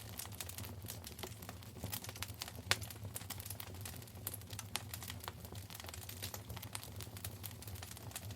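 Wood fire in a fireplace crackling, with many small irregular pops and one louder snap about a third of the way in, over a low steady rumble of the burning.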